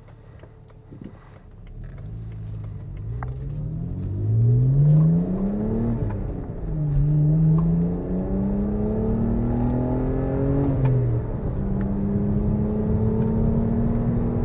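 BMW 328i's N52 straight-six with the muffler deleted, accelerating: the engine note climbs, falls back at gear changes about six and eleven seconds in, then settles into a steady drone.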